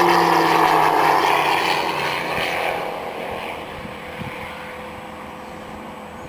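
Radio-controlled model aircraft engine passing close by, its whine dropping in pitch as it goes past and fading as it flies away, leaving a fainter steady drone.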